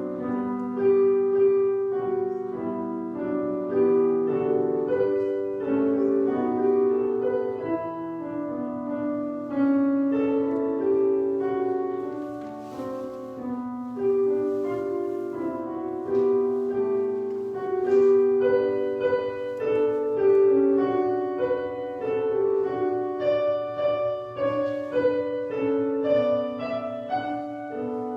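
Slow instrumental piano music: held chords under a melody line.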